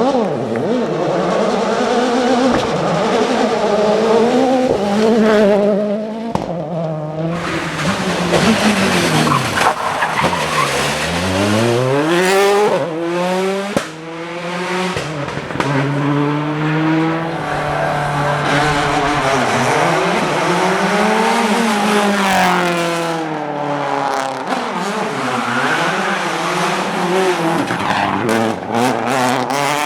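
Rally car engine revving hard, its pitch climbing and dropping repeatedly through gear changes and lifts, with tyre and skid noise. The sound dips sharply for a moment about halfway through.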